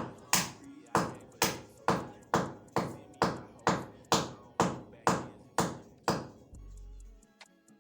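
Evenly spaced sharp knocks, about two a second, each ringing briefly, stopping about six seconds in; then music with deep bass notes.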